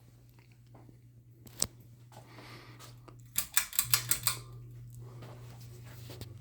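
Home Impressions Villa 52-inch ceiling fan's motor humming steadily, with a sharp click about a second and a half in and a quick run of clicks just before the middle, after which the hum gets louder.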